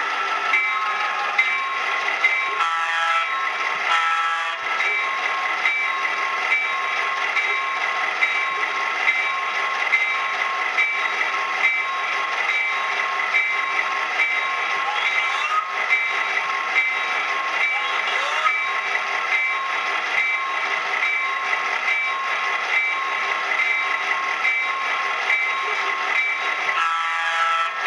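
Electronic sound effects of a model diesel locomotive, the FP7 and F7B units, running steadily, with a bell-like tone ringing over and over at an even rhythm.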